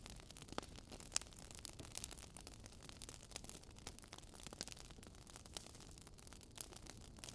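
Faint wood fire crackling: irregular sharp pops and ticks over a soft steady background.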